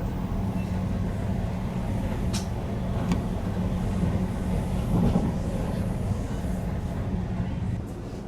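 Passenger train running, heard from inside the carriage: a steady low rumble with a couple of sharp clicks a little after two and three seconds in, and a brief louder surge about five seconds in.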